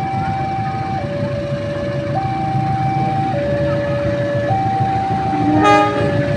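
Railway level-crossing warning alarm sounding a steady two-tone signal, switching between a low and a higher tone about every second, over a low rumble. A short horn blast sounds near the end.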